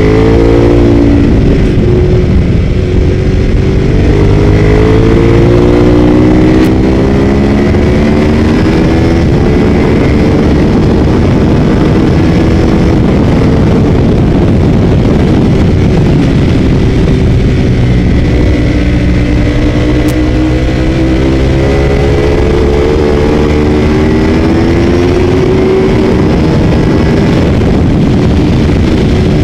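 Ducati 848's L-twin engine heard from on board at racing speed, its note rising and falling repeatedly as it accelerates and backs off through the corners.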